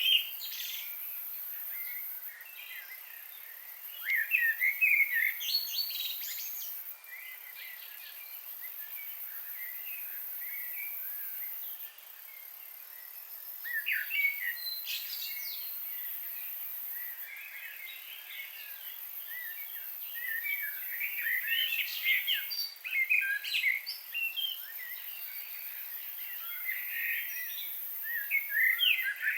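Several songbirds chirping and trilling in short, overlapping bursts, with livelier spells a few seconds apart, over a steady high-pitched hiss.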